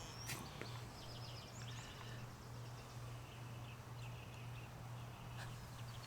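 Faint birds chirping in short repeated runs over a steady low hum, with a couple of light clicks.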